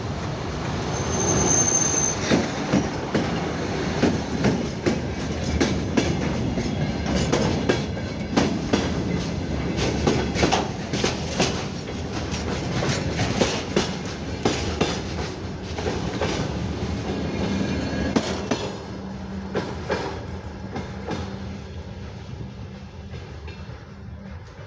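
Freight train wagons rolling past, their wheels clacking irregularly over rail joints above a steady rumble, with a brief high wheel squeal about a second in. The clacking thins out and the sound fades away near the end.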